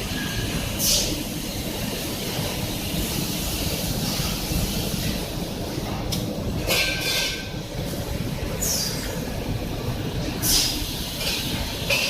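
Factory machinery running with a steady rumble, cut by short, sharp high hisses or squeals five times, about a second in, near seven seconds, near nine, near ten and a half, and at the end.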